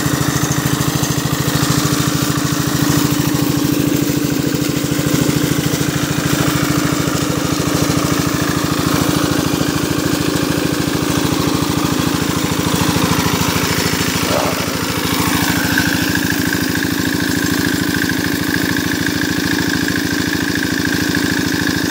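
Small 4-horsepower diesel engine running steadily with a fast, even chug, driving a 3-inch water pump that is lifting water. About two-thirds of the way through, a steady higher-pitched tone joins the engine sound.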